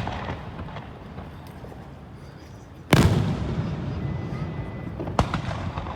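Aerial fireworks shells bursting: one loud boom about three seconds in with a long rolling rumble after it, a sharper bang near the end, and a few faint pops between.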